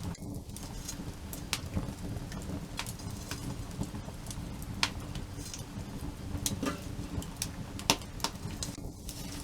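Wood campfire crackling: irregular sharp pops and snaps from the burning wood over a low, steady rumble, with one louder pop near the end.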